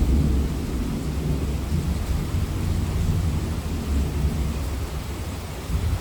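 Steady monsoon rain with a low rolling rumble of thunder, loudest at the start.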